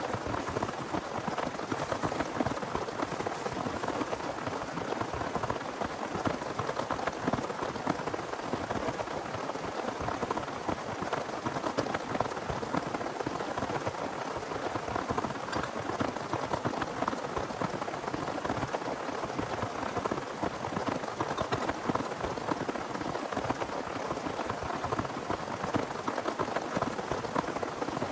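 Heavy rain falling steadily, a dense patter of many small drop impacts at an even level.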